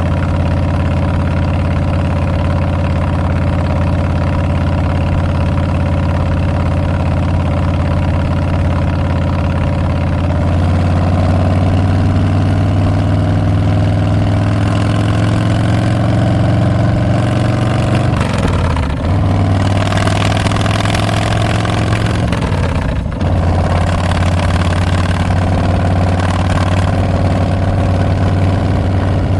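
Harley-Davidson Street Bob's Milwaukee-Eight 114 V-twin running through Tabs Performance slip-on mufflers with Zombie Baffles, pulling steadily on the road. The note rises about a third of the way in, then dips briefly twice as the throttle comes off and back on before settling into a steady run.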